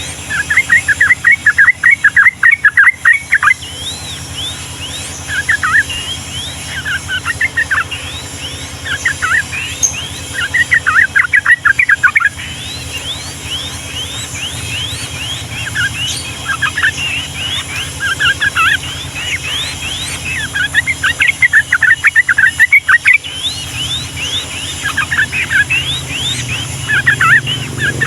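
Sooty-headed bulbul singing in bursts of rapid, rolling chirps every few seconds, with short rising notes running between them. A steady low hum lies underneath.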